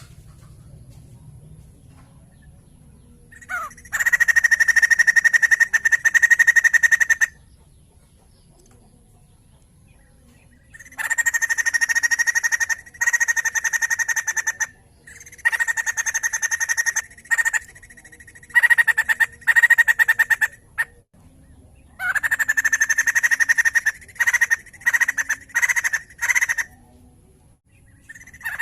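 White-crested laughingthrush (poksay jambul) calling loudly in rapid, pulsed chattering bouts. There are five bouts of about two to four seconds each, separated by short pauses.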